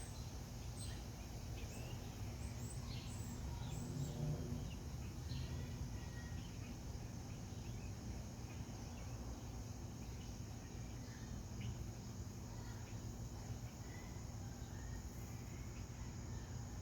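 Ceiling fan running steadily at medium speed: a low, even motor hum under soft air noise, with a few faint ticks.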